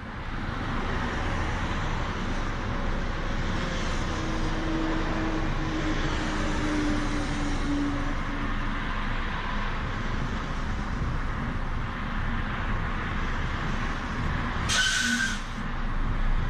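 DAF XF semi-truck driving, heard from a camera mounted on the outside of the cab: steady engine, tyre and wind noise, with a short burst of hiss about fifteen seconds in.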